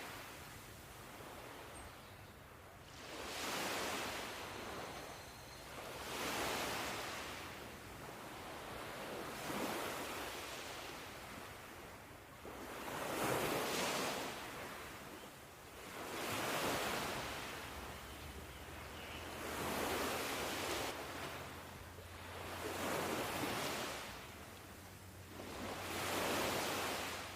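Ocean surf: waves washing in one after another, each a rush of noise that swells and fades about every three seconds.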